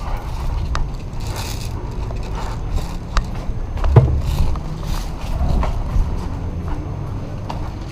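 Rustling and rubbing of a camera worn by a moving airsoft player, a steady low rumble of gear and movement, with scattered sharp clicks and one louder knock about four seconds in.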